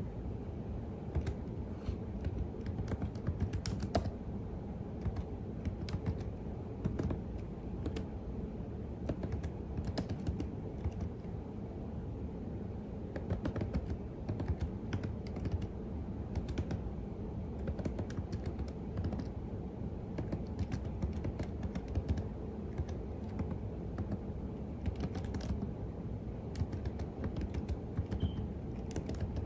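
Computer keyboard being typed on steadily, irregular key clicks over a low steady background hum.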